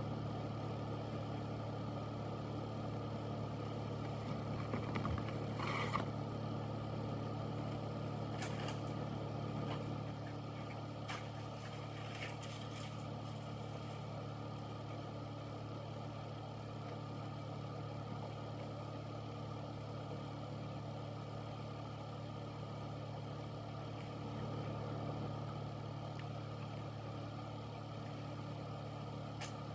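Air filter (air purifier) fan running: a steady low hum under an even rush of air, with a few faint clicks in the first half.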